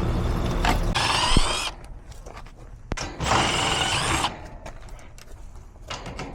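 Cordless drill-driver backing screws out of an outdoor AC condenser's top panel: two short runs of wavering motor whine, about a second in and again around three seconds in, with a few sharp clicks between.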